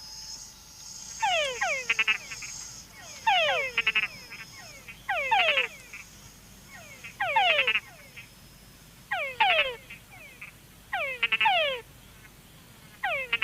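Túngara frog (mud puddle frog) mating calls played back through loudspeakers: seven falling whines, one about every two seconds.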